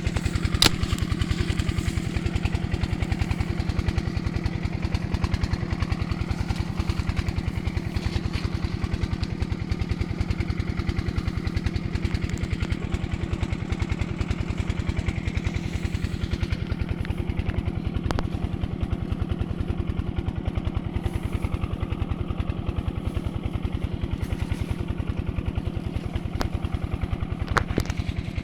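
Diesel engine driving field irrigation, running steadily with an even, rapid firing beat. A sharp click about a second in and another near the end.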